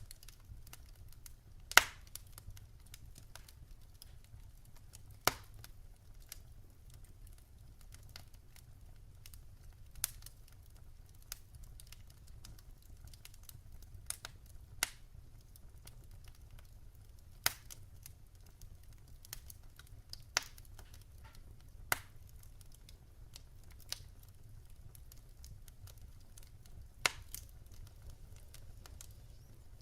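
Log fire crackling, with sharp pops every few seconds, the loudest about two seconds in, over a low steady rumble.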